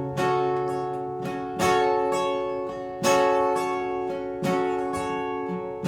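Guitar strumming chords, four strikes about a second and a half apart, each left to ring and fade before the next.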